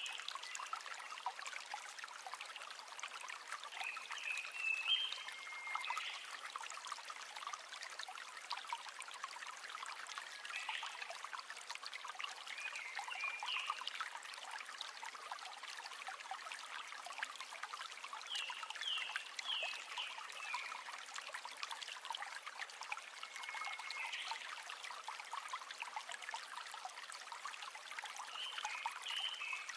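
River water trickling and babbling in a steady stream, with short high chirps every few seconds.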